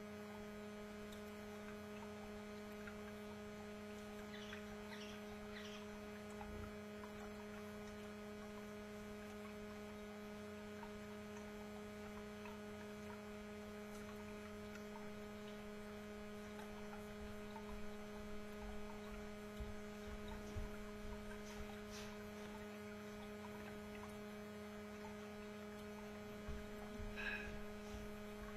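Steady electrical mains hum with a low buzz and two higher overtones, with a few faint short chirps or clicks about five seconds in and near the end.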